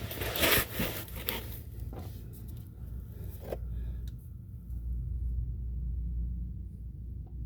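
Rubbing and scraping handling sounds in the first second or so, a single click about three and a half seconds in, then a low steady hum.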